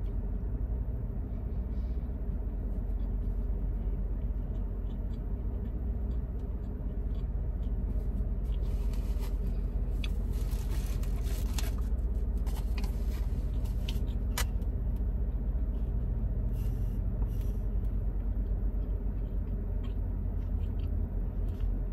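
Steady low rumble of a car idling, heard from inside the cabin, with light rustling and clicks about halfway through.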